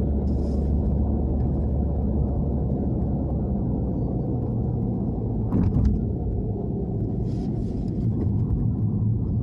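Honda Civic hatchback cruising, a steady low engine and road rumble whose engine note steps up in pitch about halfway through. There is a single short knock just before the change.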